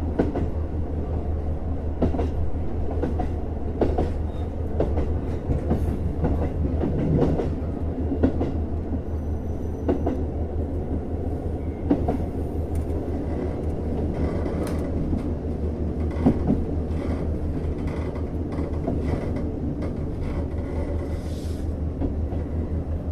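KiHa 150 diesel railcar heard from inside the car while running: a steady low engine hum, with wheels clicking over rail joints every second or two.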